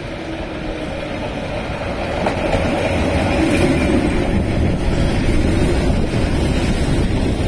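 Keihan 600 series two-car electric train passing close by, the running noise of its wheels and motors swelling about two seconds in and staying loud as the cars go by.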